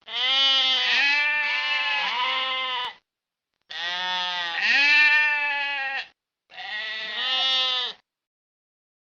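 A sheep bleating three times: two long, wavering bleats followed by a shorter one.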